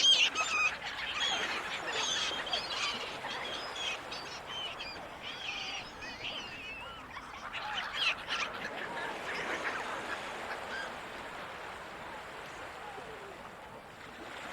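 Gulls calling, many short overlapping cries, dense through the first half and thinning out after about eight seconds, over a steady wash of sea noise.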